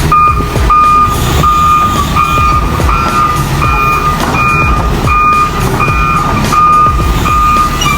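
A heavy-equipment travel or reversing alarm beeping steadily, a bit more than one beep a second, over the low running of a diesel engine.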